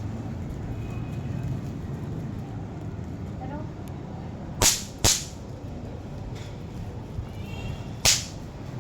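Three sharp cracks from small toy firecrackers (snap pops) going off one at a time: two close together about halfway through, one near the end.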